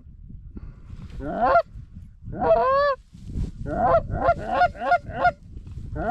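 Goose honking: two long drawn honks that rise and then fall in pitch, followed by a fast run of short clucking honks at about four a second.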